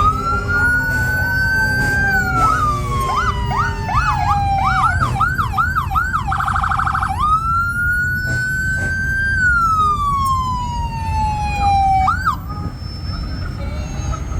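Electronic siren on a truck in the parade, cycling through its tones: a slow rising and falling wail, then fast yelps that speed up, a brief rapid warble about six to seven seconds in, then another long wail that stops about twelve seconds in. A low engine rumble runs beneath it.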